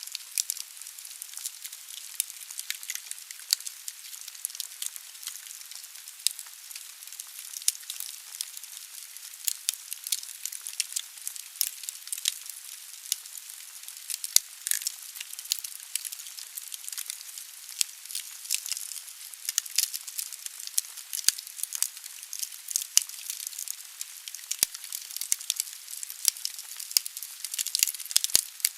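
Wood fire burning in a fireplace: a steady hiss with frequent irregular sharp crackles and pops from the burning logs.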